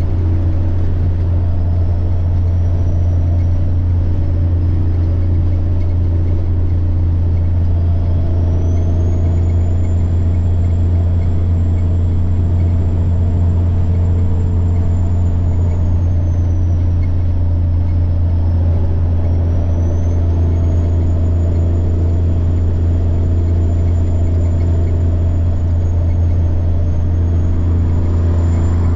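Semi truck's diesel engine running steadily under way, with a high turbocharger whine over the low drone. The whine climbs in pitch at about a third of the way in, sags around two-thirds, then climbs again.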